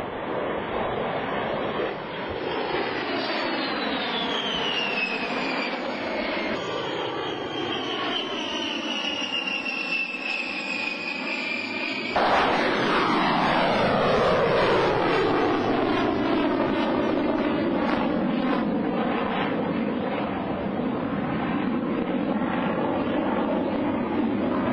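Jet aircraft flying past low, with a high engine whine that falls in pitch as it goes by. About twelve seconds in the sound cuts abruptly to a louder second pass, which also sweeps down in pitch and slowly fades.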